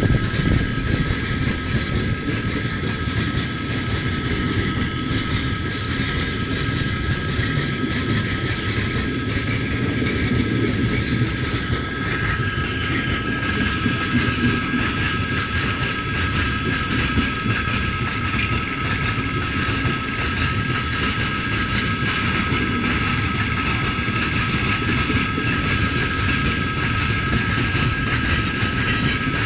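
Freight train's open gondola wagons rolling past at close range: a continuous rumble of steel wheels on the rails, with a steady high-pitched tone running through it.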